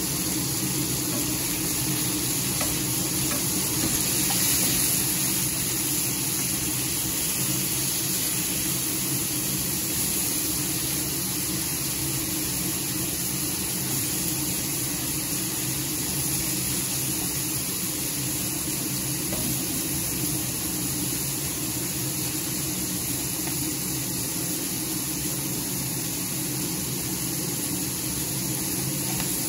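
Raw chicken pieces sizzling steadily in hot oil in a stainless steel frying pan, stirred with a wooden spoon.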